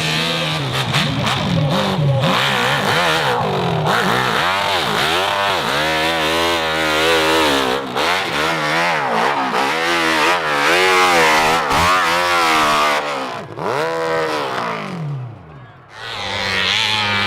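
Motorcycle engine revving hard, its pitch rising and falling in quick repeated arches as the throttle is worked. It dies away briefly near the end, then comes back at a steadier pitch.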